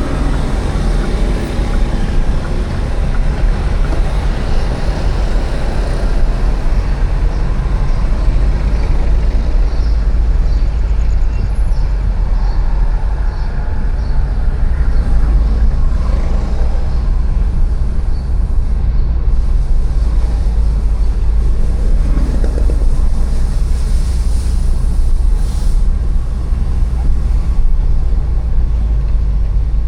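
City street traffic heard from a moving bicycle: motor vehicles running and passing, over a steady low rumble.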